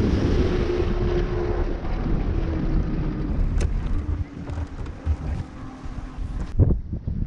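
A boat motor runs with a low steady rumble while wind buffets the microphone. The sound eases off about four seconds in, with a sharp click midway and a knock near the end.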